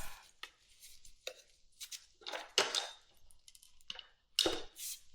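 Irregular short clicks, taps and scrapes of hand tools and parts being handled while working on a motorcycle, about eight in all, the loudest a little over halfway and near the end.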